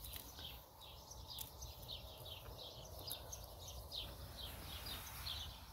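Faint bird chirping: a steady run of short, high chirps, each sliding downward, several a second, over a faint low background rumble.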